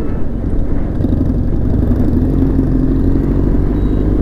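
BMW R1200GS boxer-twin motorcycle engine running under way, its note rising gently from about a second in as the bike gathers speed.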